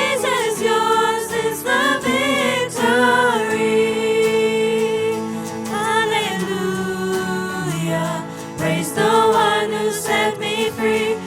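Choir singing a slow worship song: voices hold long notes and bend through sung runs over steady sustained accompaniment chords.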